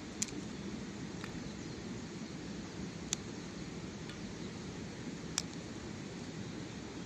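Wood campfire burning: a steady low rushing noise with a few sharp crackling pops, spaced a second or more apart.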